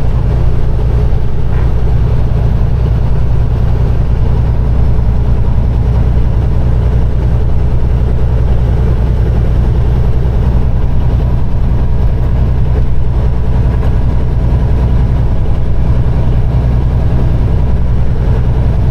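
Peterbilt 389 semi truck's diesel engine running steadily under way: a loud, even, low drone that holds unchanged throughout.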